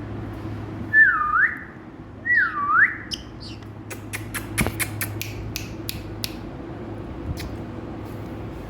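Indian ringneck parakeet giving two clear whistles about a second apart, each dipping in pitch and sweeping back up. A quick run of sharp clicks follows, over a steady low hum.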